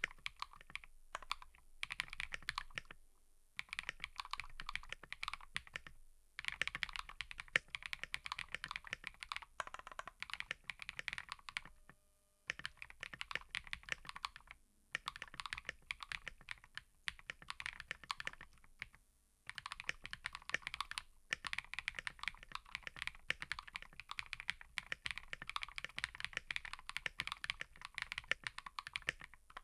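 Mechanical keyboard being typed on in quick runs of clicky keystrokes, with brief pauses between bursts every few seconds.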